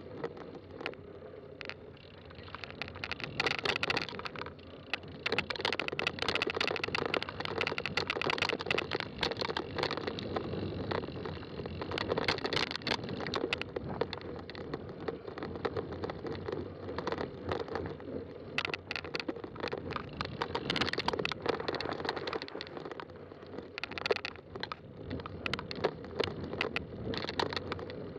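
Fat-tire mountain bike riding along a trail: tyres rolling and crunching over the ground with a steady hum, over dense crackling and rattling that swells and eases.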